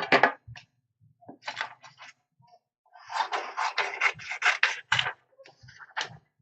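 Scratching and rubbing of craft material being handled and measured out by hand, with a quick run of scraping strokes in the middle.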